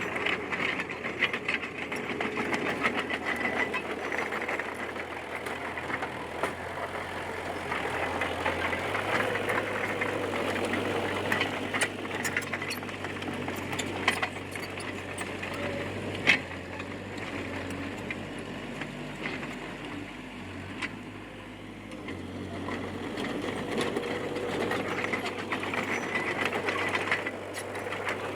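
D20P bulldozer's diesel engine running steadily, with frequent metallic clanks and rattles.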